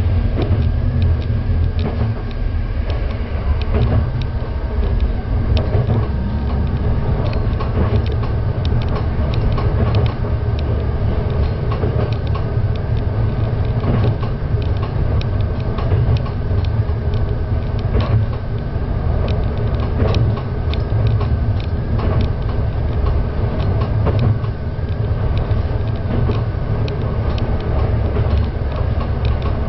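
Diesel railcar of the Yuri Kogen Railway running along the line, a steady low rumble with frequent irregular clicks and rattles.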